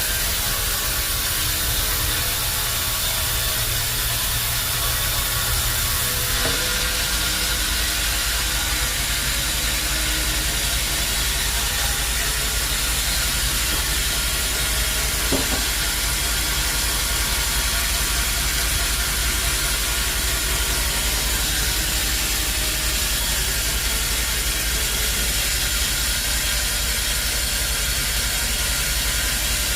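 Bandsaw sawmill running, a steady hiss over a low hum, with a slight change in the sound about six seconds in.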